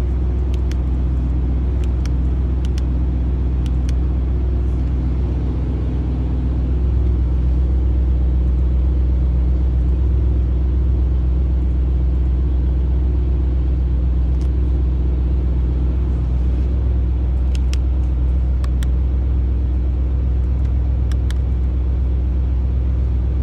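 Audi RS Q8's 4.0-litre twin-turbo V8 idling steadily in park, heard from inside the cabin as a low, even hum. A few light clicks sound over it.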